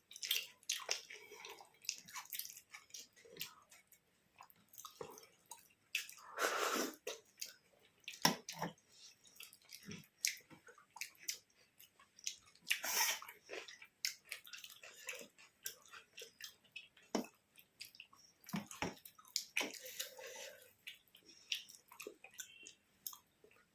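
Close-up eating sounds: a person chewing food, with many small wet mouth clicks and lip smacks, and two longer wet squelches about six and thirteen seconds in.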